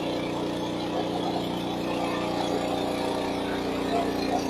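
A motor running steadily at an even pitch, with a constant hum.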